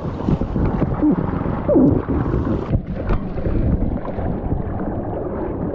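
Loud rushing river current and wind buffeting the microphone, with a few short gliding sounds about one and two seconds in.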